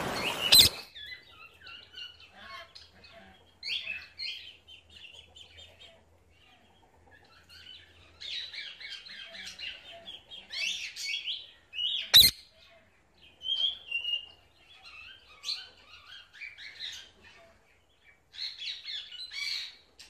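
Birds chirping and chattering in short high bursts. Rushing water cuts off in the first second, and a single sharp click sounds a little past the middle.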